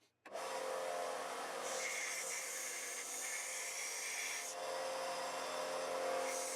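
Sealey belt sander running while a steel blade is ground against the belt: a steady grinding hiss that starts abruptly and turns harsher and brighter for about three seconds in the middle.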